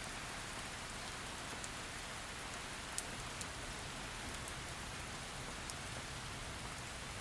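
Heavy rain falling as a steady hiss, with scattered sharp drop splats, one louder about three seconds in.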